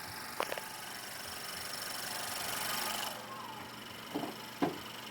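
Idling 2014 Honda Accord four-cylinder engine heard in the open engine bay, with a steady rushing hiss that cuts off suddenly about three seconds in. A few light clicks come near the start and again near the end.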